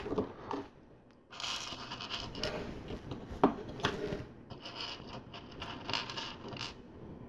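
Plastic LEGO pieces being handled and fitted together: irregular scraping and rattling of bricks, with one sharp click about three and a half seconds in.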